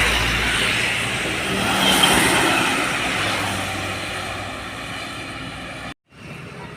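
A truck passing close by on the road, its engine and tyre noise fading steadily as it moves away. Near the end the sound cuts out briefly, then a quieter steady hum follows.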